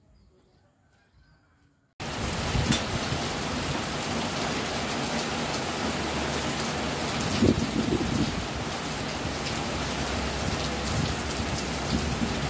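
Heavy rain falling steadily, cutting in suddenly about two seconds in after near silence.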